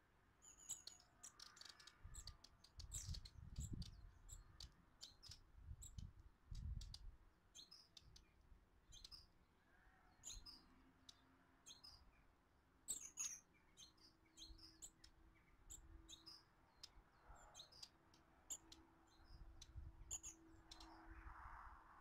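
Small garden birds, tits at the feeders, calling with many short, high chirps and tweets at irregular intervals, often overlapping.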